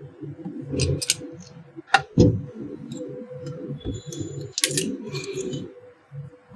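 Light clicks, clinks and knocks of an electric iron's parts and small tools being handled during reassembly, the loudest about two seconds in, over a faint steady hum.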